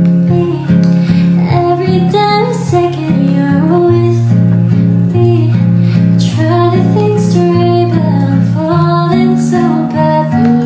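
Acoustic guitar music, plucked and strummed chords played steadily, as a song cover.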